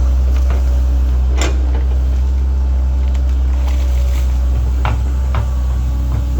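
Link-Belt 2700 excavator working: its diesel engine runs in a steady low drone, with short scraping clanks of the bucket on dirt and rock, the sharpest about a second and a half in and two more near the end.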